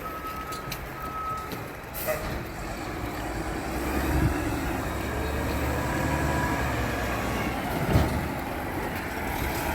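Garbage truck arriving: a few short backup beeps at the start, a brief hiss about two seconds in, then its diesel engine grows louder as it draws near.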